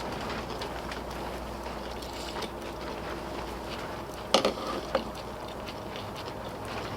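Quiet eating sounds over a steady outdoor background, with a sharp clink of a utensil against a dish about four seconds in and a lighter tick about half a second later.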